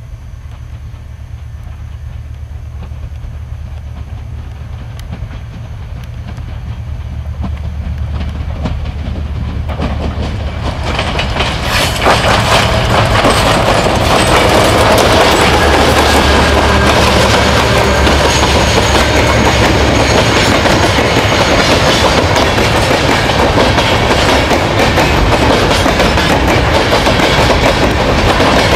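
Freight train hauled by an ALCo RSD16 and an EMD GT22CW diesel locomotive approaching, its engines' low drone growing steadily louder. The locomotives pass close by about twelve seconds in, then the wheels and container cars roll past with a loud, steady rumble.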